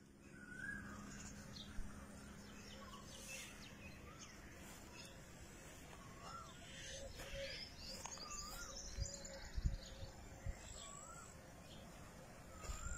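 Faint birds calling and chirping: a short call repeats every second or two over higher twittering, against a steady outdoor hiss. A few soft knocks come in between.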